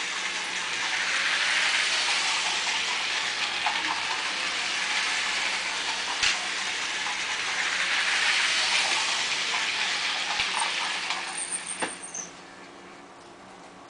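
Lego train's motor and wheels running along plastic track, growing louder and fading twice, with a few sharp clicks. The running stops about twelve seconds in.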